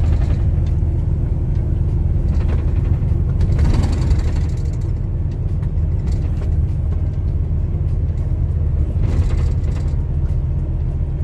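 Steady low rumble of a moving truck's engine and road noise, heard from inside the cab, with a brief swell of hiss about four seconds in.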